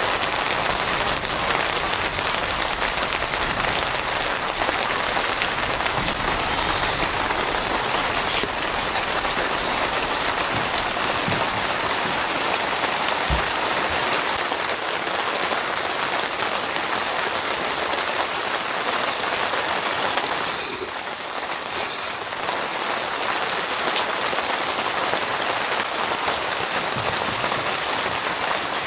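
Steady rain falling, an even hiss of drops. About two-thirds of the way through it is briefly interrupted by a sharper, higher hiss for a second or two.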